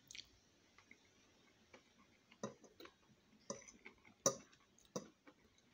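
Quiet eating sounds from a person chewing spaghetti: a handful of soft, irregular mouth clicks and smacks, the loudest about four seconds in.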